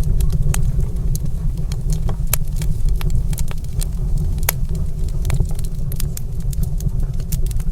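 Wood fire in a stone fireplace crackling, with irregular sharp pops and snaps, several a second, over a steady low rumble.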